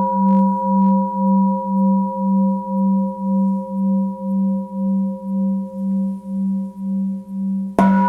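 Tibetan singing bowl ringing after a strike, its deep hum wavering about twice a second as it slowly fades. It is struck again near the end.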